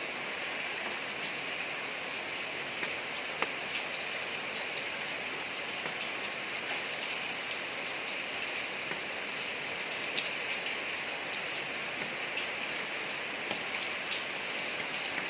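Steady rain falling on a street, an even hiss with scattered sharper drips and splashes of individual drops.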